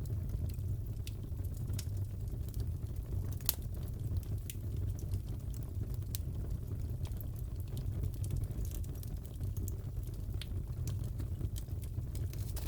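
Wood fire crackling in a fireplace: a steady low rumble of flames with irregular sharp pops and crackles scattered through it.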